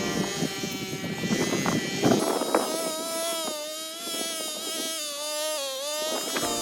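Small two-stroke brush cutter engine running at high revs, its pitch holding steady with a slight waver. This follows a rougher, noisier stretch of about two seconds.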